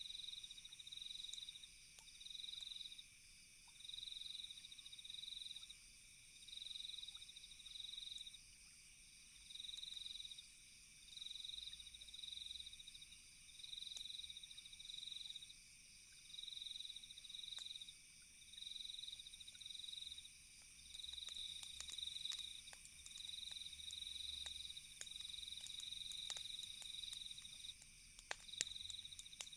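Faint night insect chorus: short chirping trills repeating about every second and a half over a steady high-pitched insect drone, typical of crickets. A few faint crackling clicks from the campfire come in near the end.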